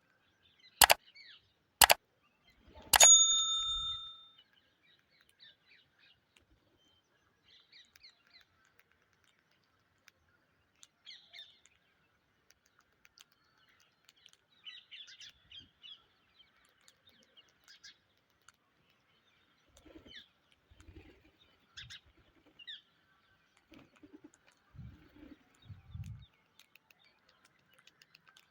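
Two sharp clicks and a bell-like ding in the first few seconds, then faint, scattered short chirps of Indian ringneck parrots, with a few soft low thumps.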